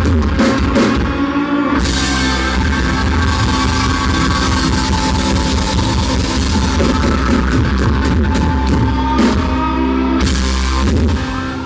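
Live country-rock band playing loud with drum kit and electric guitar, recorded with heavy distortion; the music eases off near the end.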